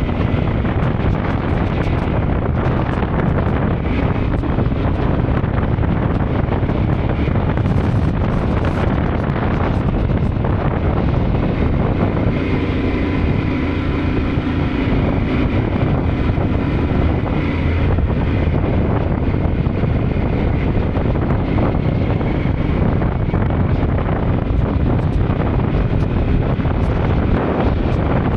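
Yamaha Ténéré 700's parallel-twin engine running under way, buried in heavy wind noise on the microphone, the engine note shifting slightly now and then.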